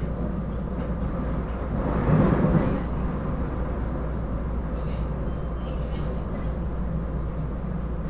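Steady low rumble and hum of a SEPTA regional rail train heard from inside the passenger car, with a brief louder swell about two seconds in.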